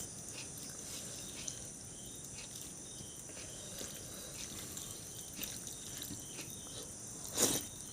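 Quiet mukbang eating: faint small clicks of chewing and handling food, with a louder bite or crunch near the end, over a steady high-pitched chirring like crickets.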